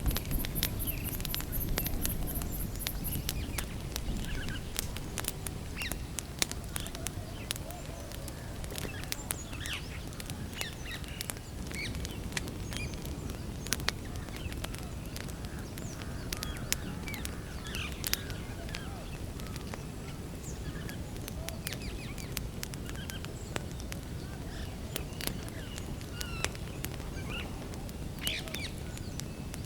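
Wood campfire crackling, with frequent sharp pops scattered through a low steady rumble. Birds chirp now and then in the background.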